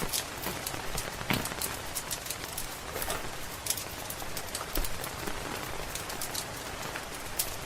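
Steady rain pattering on a roof, with frequent sharp crackles and pops from a wood fire over it.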